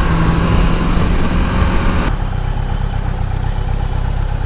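Kawasaki Z900 inline-four engine running at low revs as the bike rolls in. About two seconds in there is a sharp click and the higher rushing noise drops, leaving a steadier low engine note.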